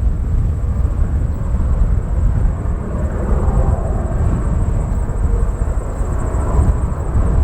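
Strong gusty wind buffeting the microphone as a heavy, uneven rumble, with an aircraft's engines running steadily underneath and a thin, steady high whine.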